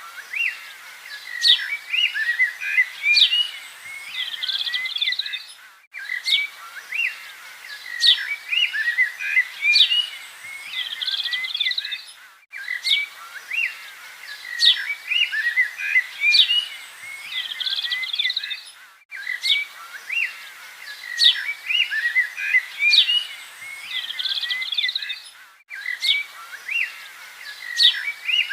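Many small birds chirping and calling together in a dense chorus of short high notes. The same few seconds of birdsong repeat about every six and a half seconds, with a brief drop-out at each join, as a looped recording.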